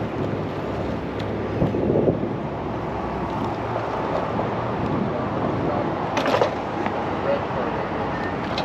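Steady vehicle running noise with a low engine hum while driving, broken by a couple of short louder sounds about two and six seconds in.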